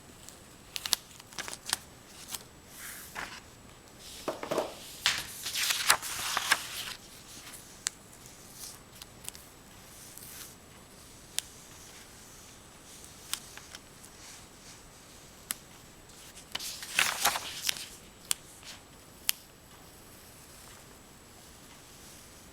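Oil pastels scraping and rubbing on paper in a few short clusters of strokes, with scattered light clicks and taps as the sticks and paper are handled.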